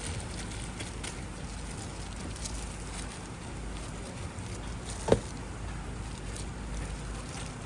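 Snack-bar kitchen noise: a steady hiss with faint scattered ticks, and one sharp knock about five seconds in.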